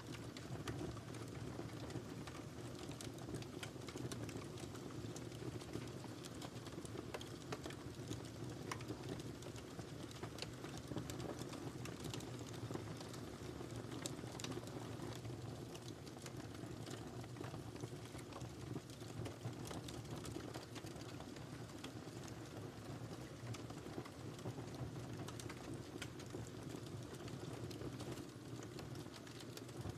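Wood fire burning in a fireplace, a steady low rush of flames with frequent small sharp crackles and pops scattered throughout.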